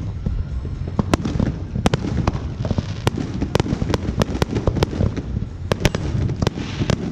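Fireworks and firecrackers going off all around: a continuous low rumble of booms with sharp cracks and pops, about two a second at irregular spacing.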